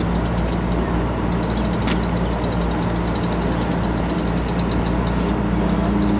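A steady low engine-like hum with a rapid, regular high-pitched ticking over it from about a second and a half in.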